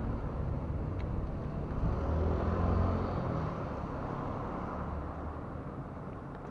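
Low engine rumble of a motor vehicle that swells about two seconds in and then slowly fades away.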